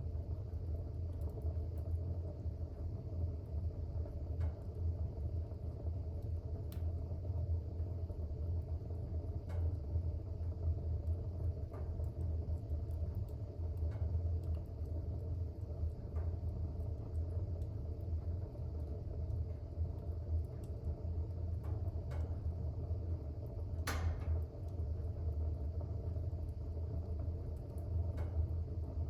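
Fire burning in a fireplace: a steady low rumble of the flames with scattered sharp crackles every second or two, one louder pop about 24 seconds in.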